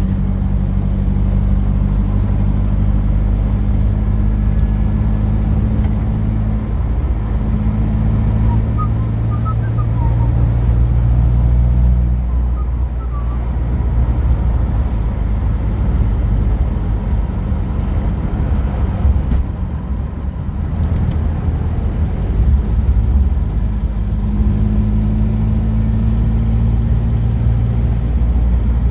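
Car engine and road noise heard from inside the cabin while driving: a steady low drone that drops in pitch about twelve seconds in and rises again about halfway through the second half, as speed or gear changes.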